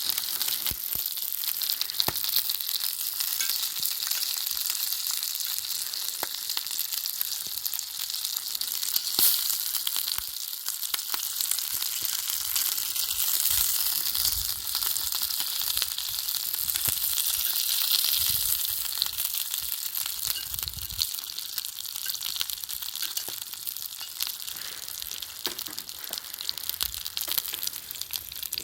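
Food frying over a campfire, sizzling steadily with scattered small pops and crackles.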